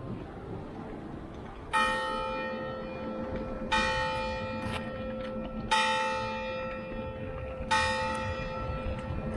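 A church bell tolling four times, evenly about two seconds apart, each strike of the same pitch ringing on into the next.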